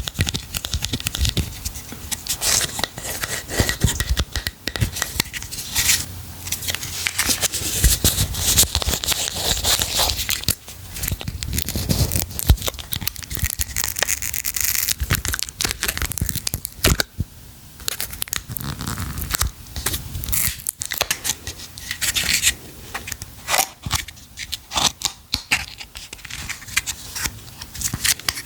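Packaging being torn open and crinkled by hand: a dense, irregular run of rips and crackles.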